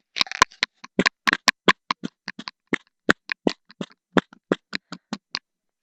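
Sparse hand clapping: a small round of applause, claps coming unevenly at a few a second and spacing out towards the end.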